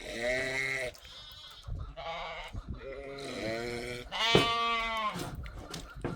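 A flock of livestock bleating: about five separate calls from several animals, the loudest and longest a little after four seconds in.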